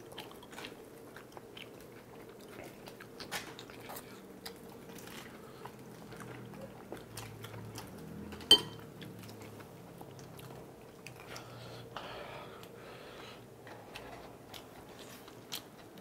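Close-up mukbang eating sounds: biting and chewing on a breaded corn dog and spicy tteokbokki rice cakes, with many small mouth clicks and smacks. One sharp click stands out about eight and a half seconds in.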